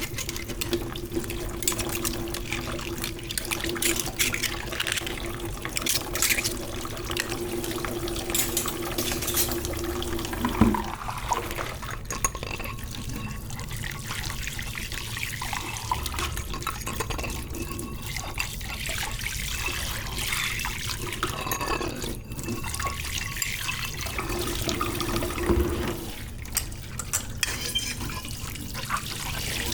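Tap water running into a kitchen sink while dishes are washed by hand, with frequent knocks and clinks of dishes. A steady low tone runs with the water for the first ten seconds or so and comes back briefly near the end.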